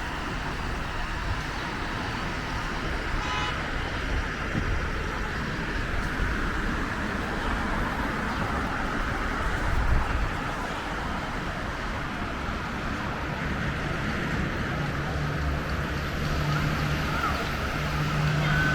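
City street traffic: a steady wash of passing vehicles, with a short horn toot about three seconds in and a low steady engine hum coming in during the second half.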